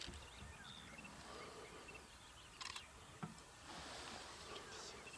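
Quiet outdoor bush ambience: a faint steady background with two small clicks a little over halfway through and a faint hiss near the end.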